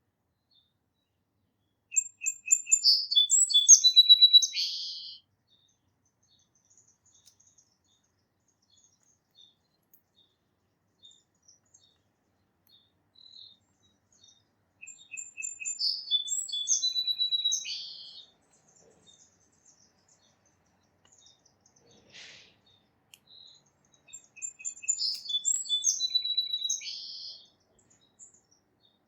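A song sparrow singing the same song three times, spaced several seconds apart: each song opens with a few short notes, then breaks into a quick jumble of high trills and buzzes.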